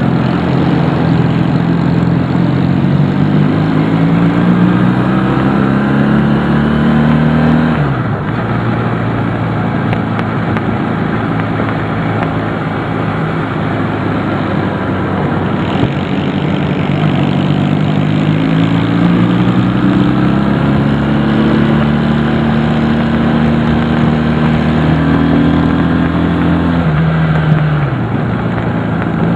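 Honda CD175 motorcycle's twin-cylinder four-stroke engine on the road, its revs climbing slowly, then dropping sharply about 8 seconds in. The revs climb again and drop once more near the end.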